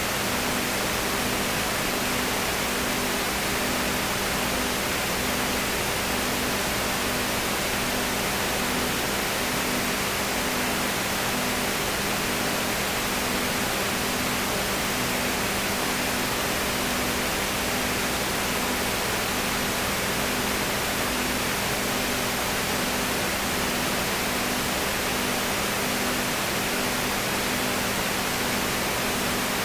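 Steady hiss filling the whole range, with a low hum underneath that pulses at an even rhythm.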